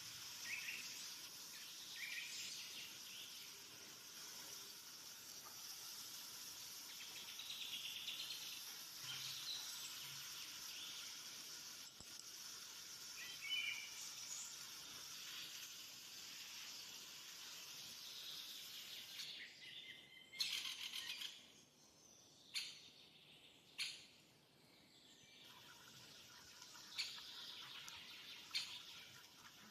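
Food faintly sizzling as it fries in a pan. About two thirds of the way through the sizzle drops away, leaving a few sharp clicks.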